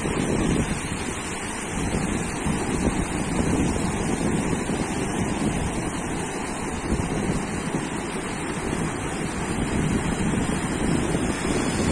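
Sea surf washing onto a sandy beach in a continuous, gently swelling rush, with wind buffeting the microphone.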